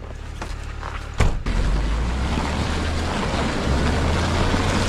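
Truck engine running as the truck drives off through snow, after the engine has been warmed up from cold. A knock about a second in, then a loud steady low rumble.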